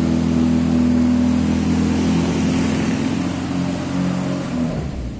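Suzuki Sidekick's engine running steadily while the car is being worked on, stopping near the end.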